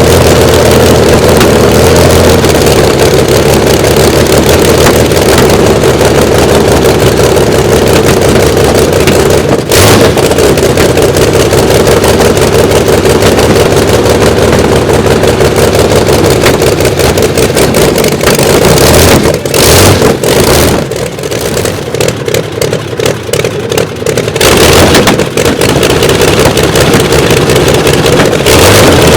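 BABS's 27-litre Liberty V12 aero engine running loud and steady. It drops away for a few seconds about two-thirds through, with short bursts around that, then picks up again.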